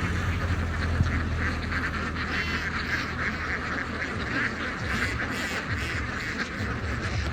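A large flock of ducks quacking continuously, many calls overlapping into a steady din, over a low rumble that breaks up about five seconds in.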